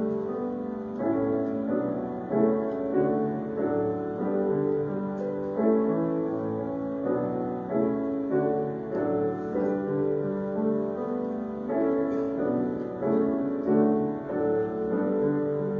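Piano playing chords, a steady run of notes changing about every half second to second.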